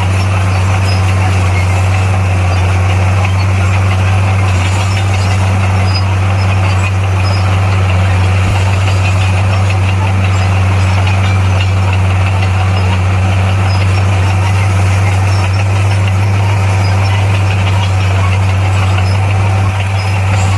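Heavy earthmoving machine's diesel engine running steadily at a constant speed, a deep unchanging drone.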